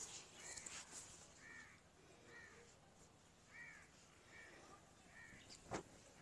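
Faint bird calls: short, harsh, caw-like notes repeated about once a second. A single sharp knock sounds near the end.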